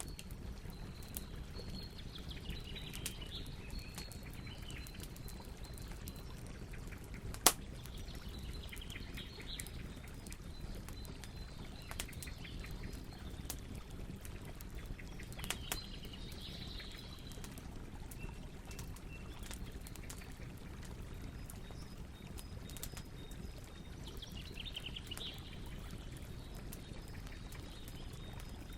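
Wood campfire crackling over a steady low rush, with scattered small pops and one sharp loud pop about seven seconds in.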